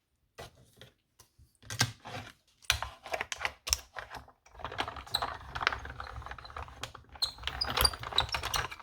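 Irregular clicks, taps and rustles of paper, a metal cutting die and plastic cutting plates being handled while setting up a second die cut, getting busier about halfway through.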